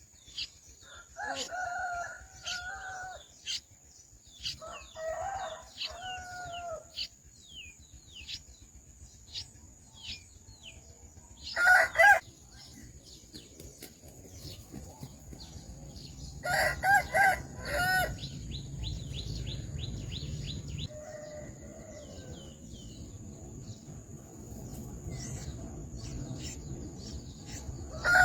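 Domestic fowl calling: a rooster crows several times, loudest about 12 and 17 seconds in, over many short, high, falling peeps of chicks. A steady high whine runs underneath.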